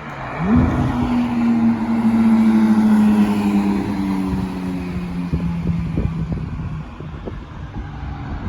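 Diesel locomotive air horn sounding one long chord of several tones for about six seconds, its pitch sagging slightly before it cuts off, over the low rumble of the train.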